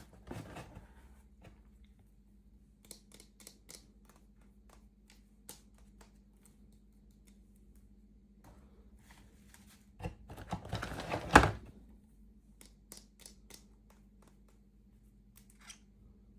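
Small plastic toy pieces and packaging being handled: scattered light clicks and taps, and a louder rustle about ten seconds in that ends in one sharp snap.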